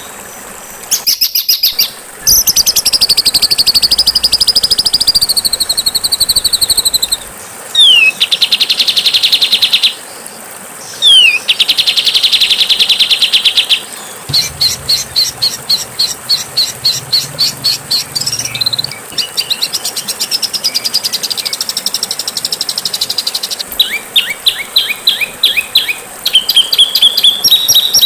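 Songbird song edited into a training track: fast chattering series of high notes, long buzzy trills and a few sharp downward whistles, with sudden cuts between passages.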